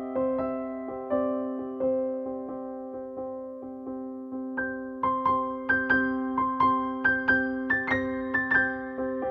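Background keyboard music in a piano sound: slow, sustained notes over a held low tone, turning brighter and quicker about five seconds in.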